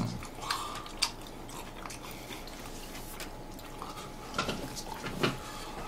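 People chewing food, with a few short soft crunches and clicks scattered through.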